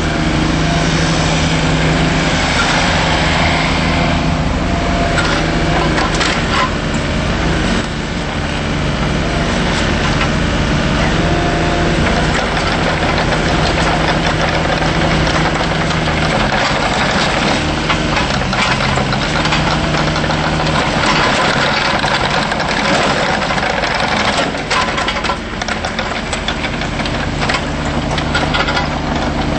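Bobcat 320 mini excavator's Kubota diesel engine running steadily, its pitch shifting a little as the load changes, with a few short knocks or clanks.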